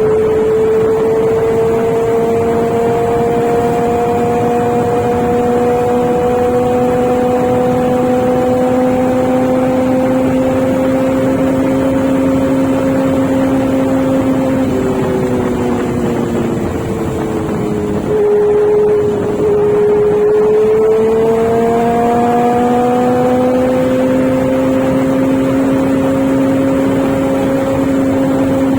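Inline-four sport motorcycle engine running under way, with wind rushing past. The note climbs slowly, drops in pitch around the middle as the throttle eases, holds level for a couple of seconds, then climbs again.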